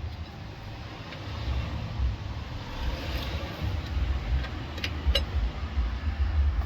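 A socket on a breaker bar working a locking wheel nut loose, with a few sharp metallic clicks about five seconds in over a steady low rumble.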